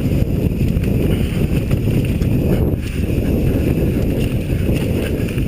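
Wind rumbling across the microphone: a steady low rush with scattered light clicks.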